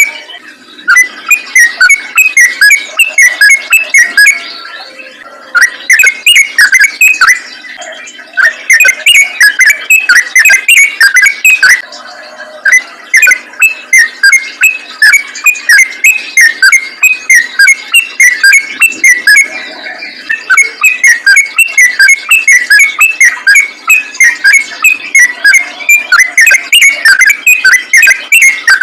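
Yellow-vented bulbul (trucukan) singing a loud, rapid string of short repeated notes, about three or four a second, with a few brief pauses.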